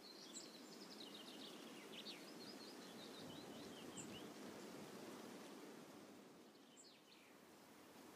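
Faint outdoor ambience: a songbird twittering in a quick run of high chirps over the first three seconds and again briefly near seven seconds, over a steady low hiss.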